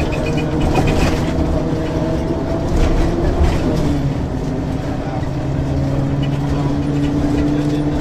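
1994 Ikarus 435 articulated diesel bus with a ZF gearbox under way: a steady engine drone with rattles and clicks. The engine tone weakens after about a second and comes back strongly from about five seconds in.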